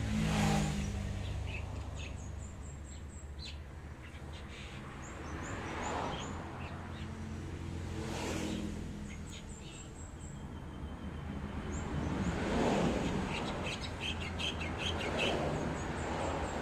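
Small birds chirping in short runs of quick, high notes, several times over. Beneath them run a steady low hum and slow swells of noise every few seconds, like passing traffic.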